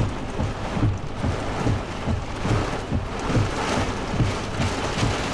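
Heavy wind-driven rain pelting a pickup truck in a severe straight-line wind storm, heard from inside the cab, with gusts buffeting in irregular low thumps several times a second.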